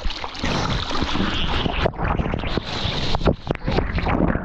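Wind buffeting the microphone and water rushing and splashing while surfing fast behind a jet ski, in choppy gusts.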